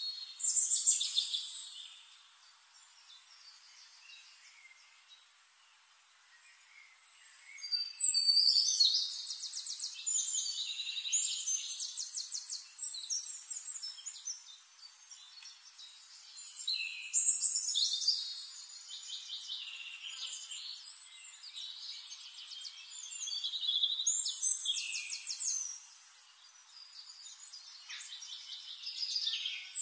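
Small birds singing: bursts of rapid, high-pitched trills and chirps that come back every several seconds, with a quiet stretch of about five seconds near the start.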